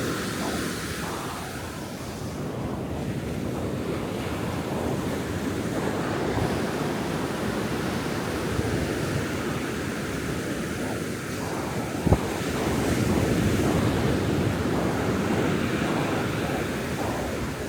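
Ocean surf breaking and washing on the shore, a continuous rushing that swells and eases, with wind buffeting the microphone. A single short click about twelve seconds in.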